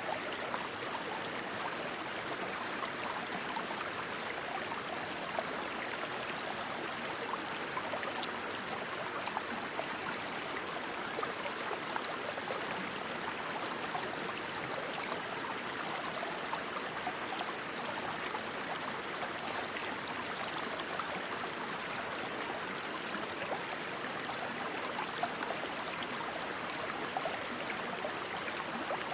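Rushing water, a steady stream. Short high-pitched chirps are scattered through it, a few times in quick runs of several.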